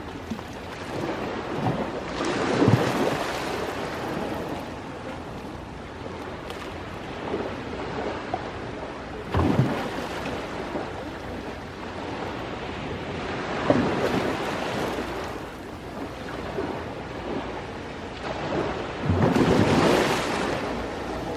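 Sea waves washing onto the shore, swelling and falling back in surges every few seconds.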